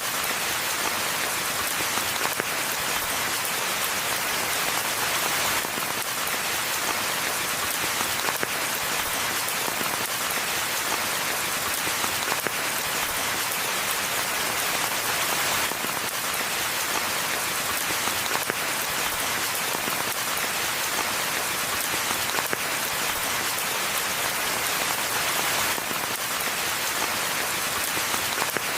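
Steady rain falling on forest ground and foliage, a dense, even hiss of many drops with no let-up.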